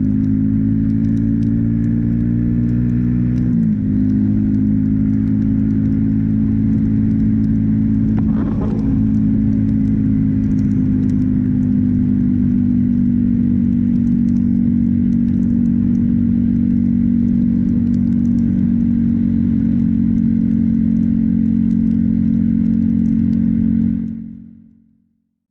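Motorcycle engine running at a steady cruising speed under wind and road noise, its pitch dipping briefly about three and a half seconds in. The sound fades out near the end.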